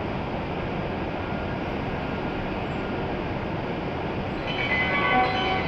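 Steady hum of a shinkansen station platform with E7-series trains standing. About four and a half seconds in, a series of clear chime-like tones at several pitches starts up, the signal for the train's departure.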